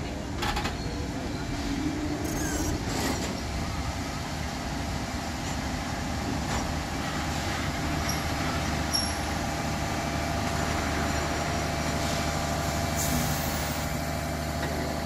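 Heritage passenger train carriages rolling slowly past on the rails, with wheel and brake noise, a few short hisses and faint high squeals. A steady low hum grows stronger about nine seconds in.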